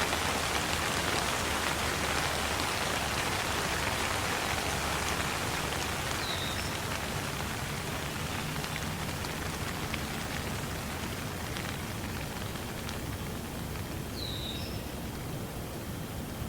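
Steady rain falling, an even hiss that slowly gets quieter. Two short high chirps break through, about six and fourteen seconds in.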